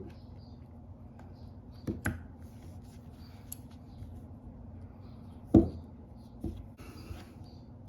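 Scattered light clicks and taps of small tools and phone parts being handled during an iPhone screen replacement, with one louder knock about five and a half seconds in and a brief rustle near the end, over a steady low hum.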